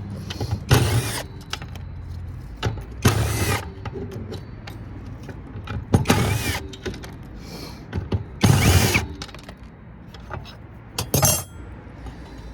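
Power drill-driver backing screws out of a circuit board in five short bursts, its motor whirring up and falling back each time, with small clicks of hardware in between.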